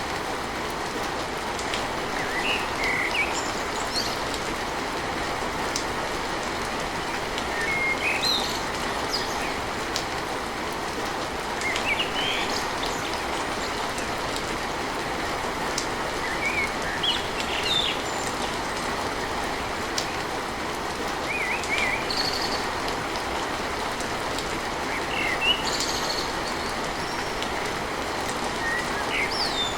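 Steady rain drumming on a tin roof, with short bird chirps scattered through it.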